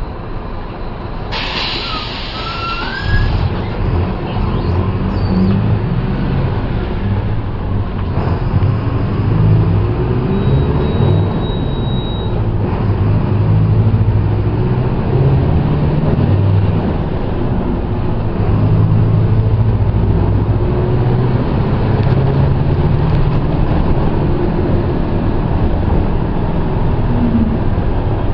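Mercedes-Benz OF-1722M bus's diesel engine running as the bus drives, with a burst of air hiss about a second in. The engine grows louder from about three seconds in and stays strong.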